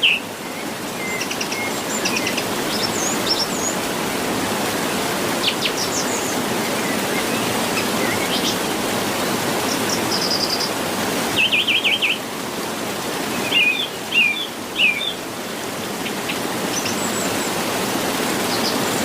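Songbirds chirping and calling over a steady rushing background noise. A quick trill of repeated notes about twelve seconds in, then a few sharp calls, are the loudest sounds.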